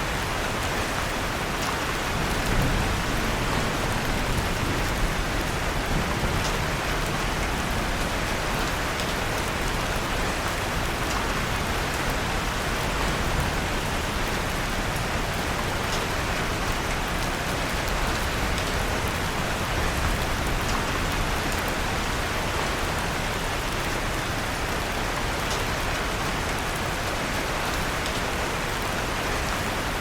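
Steady rain falling, mixed with a wood fire in a fireplace crackling faintly now and then.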